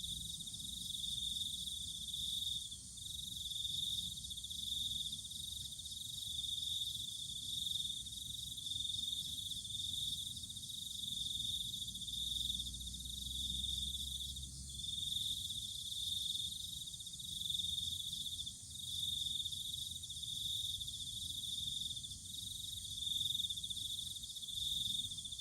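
A cricket trilling in a high, steady pitch, in trills about a second long with brief pauses between them.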